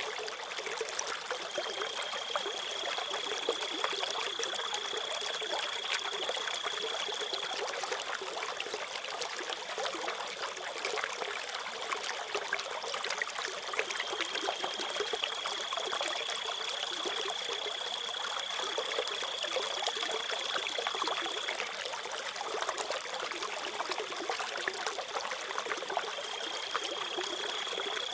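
Water trickling and running steadily, like a small stream, with a cricket trilling on one high steady pitch in long stretches of six to eight seconds that stop and start again, three times.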